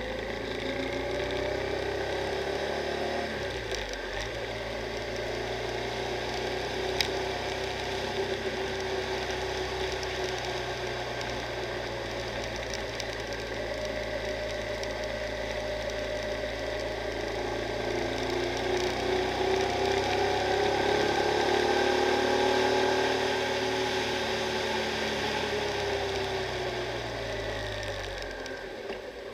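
Honda Transalp XL600V's V-twin engine running under way on a winding road, its pitch rising and falling with the throttle over a rush of wind and road noise. The revs drop briefly about four seconds in and again near the end, and the engine is loudest a little past the middle.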